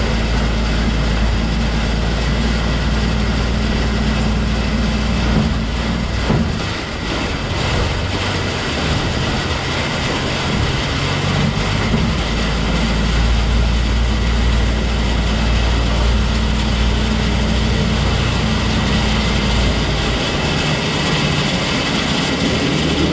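Peterbilt 377 dump truck's diesel engine running under way at road speed, a steady low drone with road noise; the engine note sags for a moment about six seconds in, then picks back up.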